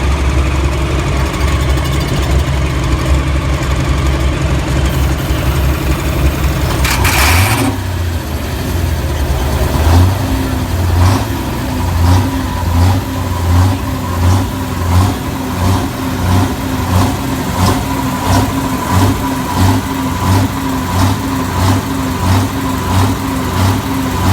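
Perkins V8 diesel engine of a Massey Ferguson 1150 pulling tractor running at idle with a steady low rumble. About seven seconds in there is a brief burst of noise, and after that the engine note pulses in a loping rhythm about once a second.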